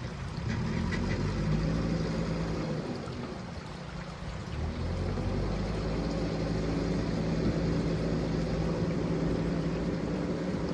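A heavy machine's diesel engine running, easing off briefly about three to four seconds in, then picking up again and running steadily.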